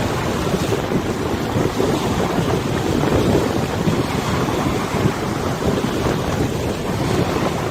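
Wind buffeting the microphone over a wide river, mixed with the wash of the river water: a steady, low rushing with no pauses.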